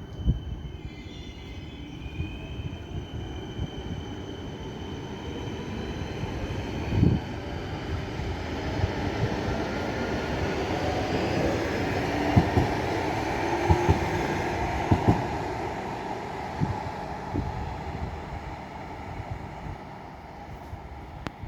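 A train running along the platform, its rumble building to a peak about two-thirds of the way through and then easing off, with several sharp knocks from the wheels.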